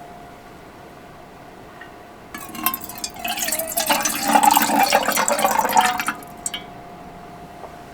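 Liquid being poured into a container for about four seconds, starting a little over two seconds in, over a faint steady hum.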